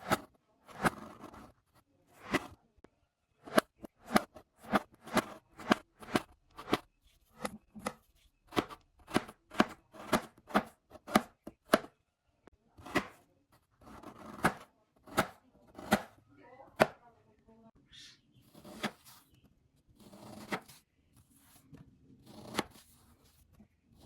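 A blade chopping into bamboo: a run of sharp, crisp strikes, about two a second through the middle, thinning out to sparser strokes and softer, duller sounds near the end.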